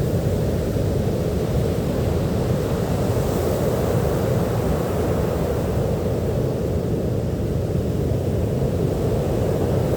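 Sea waves washing onto a beach: a steady, deep rush of surf with no breaks, swelling slightly a few seconds in.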